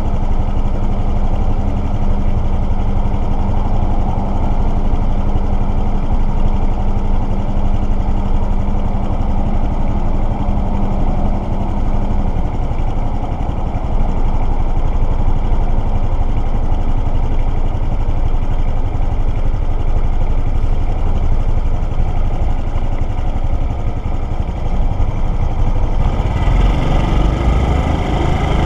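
Motorcycle engine idling at a standstill in traffic, then revving up as the bike pulls away near the end.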